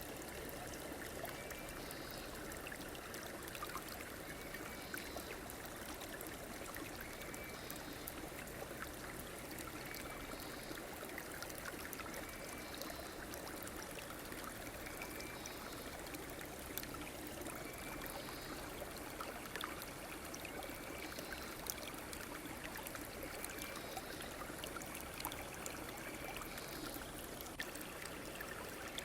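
River water flowing steadily with a soft trickling rush. A faint short high call repeats every two or three seconds over it.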